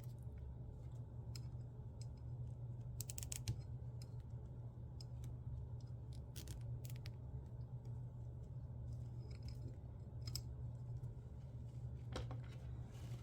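Nylon zip ties being handled and pulled tight: scattered small plastic clicks, with a quick ratcheting run of clicks about three seconds in, over a steady low hum.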